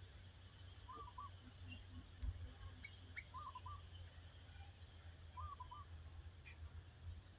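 A bird calling faintly: three short two-note calls, about two seconds apart, with a few faint higher chirps from other birds and a low rumble underneath.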